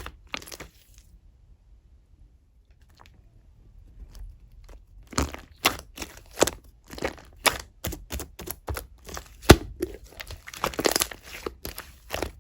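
Slime being squeezed, poked and pulled by hand, giving sharp crackling and crunching pops. After a nearly quiet pause of a few seconds, the pops come again in a quick, irregular run, one standing out loud about midway.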